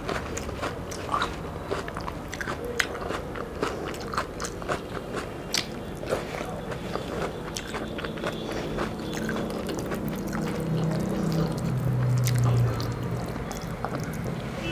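Close-up eating sounds: chewing with wet mouth clicks, and fingers mixing rice and dal on a plate. A low hum builds up in the second half.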